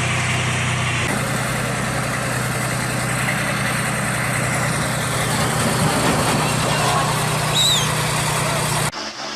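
Heavy construction machine's engine running steadily under loud mechanical noise. The sound changes abruptly about a second in and again near the end.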